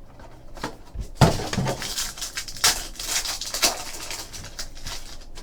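Rustling, scraping and a knock as a sealed trading-card box and its packaging are opened and the cards handled.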